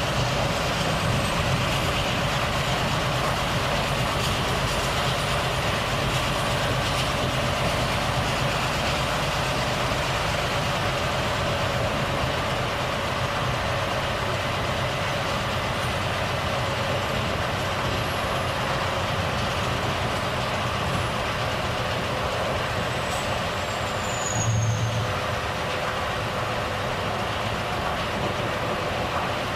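Volvo FH truck running steadily, its engine drone under an even road and wind noise. About 24 seconds in there is a brief louder low swell with a faint falling whistle just before it.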